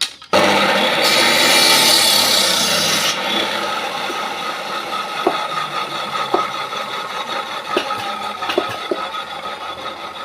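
Maktec electric saw cutting wood. It starts suddenly with a harsh, bright cutting noise for the first few seconds, then the motor keeps running with a lighter cutting sound and scattered small clicks.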